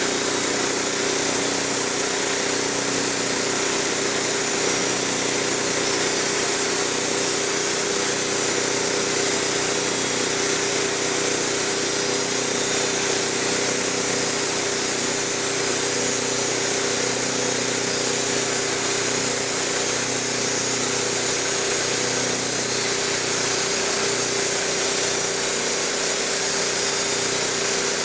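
Wood-Mizer LT15 band sawmill running steadily under load, its engine holding an even pitch while the band blade saws a plank off the log.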